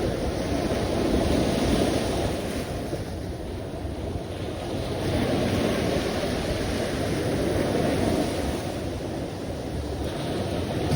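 Ocean surf: waves washing in a continuous rush that swells and eases every few seconds.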